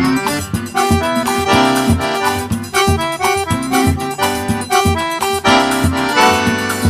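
Accordion-led music, in the style played for festa junina quadrilha dancing, with a steady beat.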